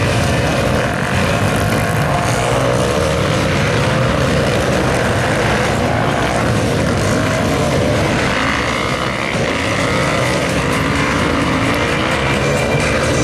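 Supermoto motorcycle engines running hard on track, their pitch rising and falling with throttle and gear changes.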